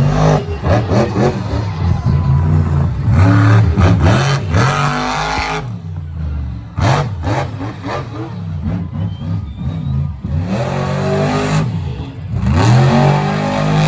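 Monster truck engine revving hard over and over, its pitch climbing and falling with each stab of the throttle, with a few sharp knocks in between.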